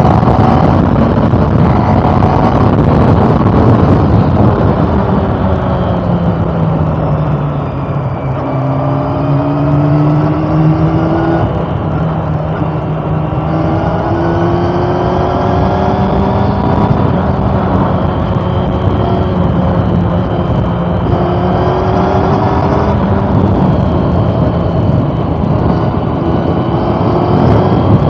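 2013 Honda CB400 Super Four Revo's inline-four engine running under way: its pitch falls over the first several seconds, then climbs and drops back several times as it accelerates and shifts up through the gears.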